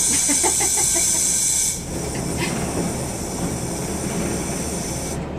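Train cab at the end of the line: a loud, high-pitched hiss cuts off just under two seconds in, leaving the train's low, steady rumble.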